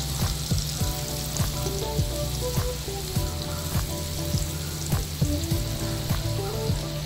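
Chillies and sliced onions frying in butter on a flat iron dosa griddle: a steady sizzling hiss with frequent small crackles, as the onions go into the hot fat.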